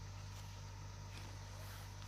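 A heavy engine idling with a steady low hum, with a few faint ticks over it.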